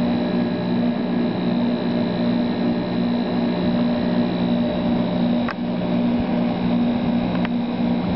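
1989 Friedrich Challenger 8,000 BTU window air conditioner running steadily: fan air with a low, even hum and a faint high whine, plus a couple of faint ticks. The unit has just begun blowing cold air.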